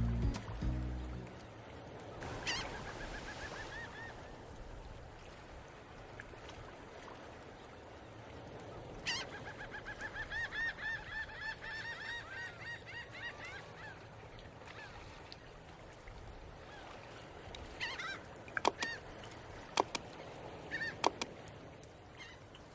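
Waterfowl calling in two quick runs of short, repeated calls over a faint background hiss, with a few sharp clicks near the end.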